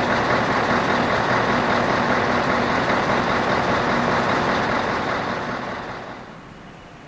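Scania 164L 480 V8 truck engine running loud, then dying away over about a second and a half near the end.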